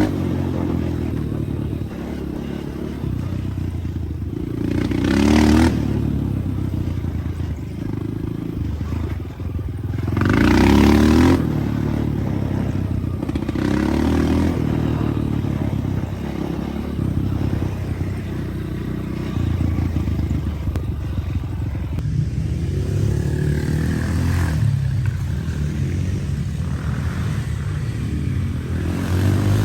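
Dirt bike engine revving up and easing off again and again, with louder surges of throttle about five and eleven seconds in.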